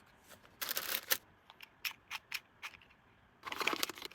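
Small packaged items being handled: plastic packaging rustling twice, with a run of light clicks in between.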